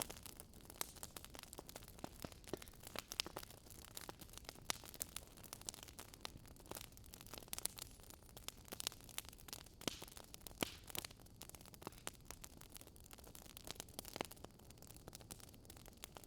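Faint campfire crackle: burning firewood giving irregular sharp pops and snaps over a soft steady hiss.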